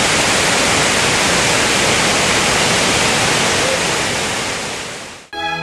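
Waterfall rushing steadily, a loud even roar of falling water that fades away near the end. Bowed string music starts just before the end.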